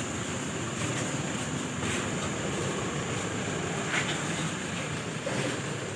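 Steady running noise of a car with its engine on, with a thin high-pitched tone above it and a few faint knocks.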